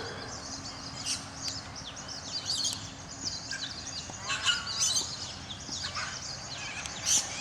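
Several birds calling: a steady run of quick, high chirps, with a few harsher squawks about four and a half and six seconds in.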